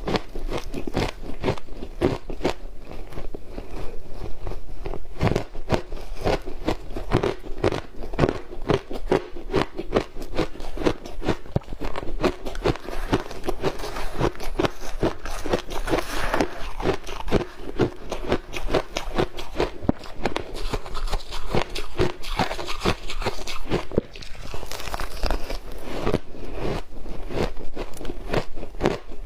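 Ice coated in matcha green tea powder being bitten and chewed with no pause, a dense run of crisp crunches and cracks.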